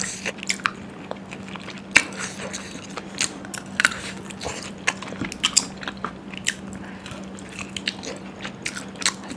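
Close-miked chewing and biting of food, with irregular sharp crunches and wet mouth clicks, over a faint steady low hum.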